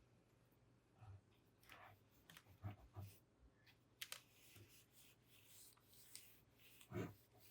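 Quiet handling sounds from cleaning a keyboard: scattered soft clicks and taps, a stretch of faint rubbing noise in the second half, and a soft low thump near the end.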